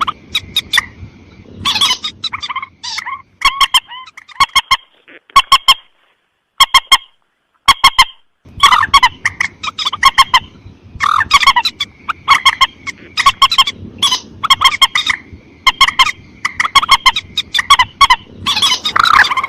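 Bird-lure recording of a mandar sawah (a paddy-field rail) calling: a fast series of short, harsh, honking notes in bursts, with a pause of about two seconds a little before the middle.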